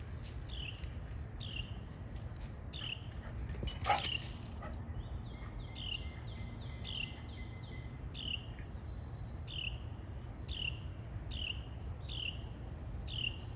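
Adult birds repeating short, downward-sliding alarm calls a little more than once a second, with a quicker run of calls midway: parent birds scolding a cat that has taken their nestling. A sharp click about four seconds in.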